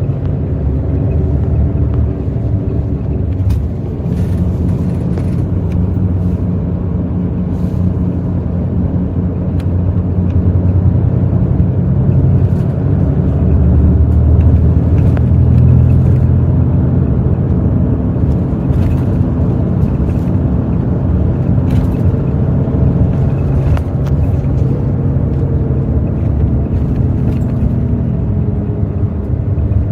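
Hino J08E-VD inline-six diesel engine of a Hino RN8JSVU-SSF bus running under way, heard from inside the bus. The engine note builds over the first half and then eases slightly, with a few light clicks and rattles.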